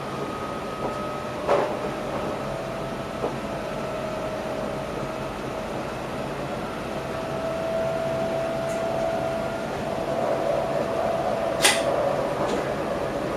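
Passenger train running, heard inside the driver's cab: a steady rumble of wheels on rail with a faint steady whine, and a few sharp clicks and knocks, the loudest near the end.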